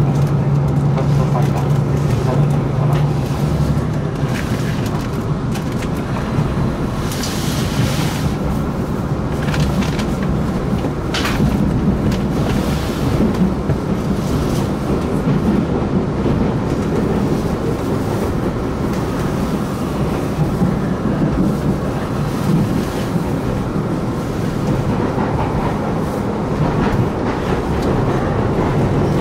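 Cabin sound of a JR Hokkaido KiHa 261-0 series diesel express train under way: a steady diesel engine hum and the rumble of wheels on rails, with a couple of sharp knocks partway through.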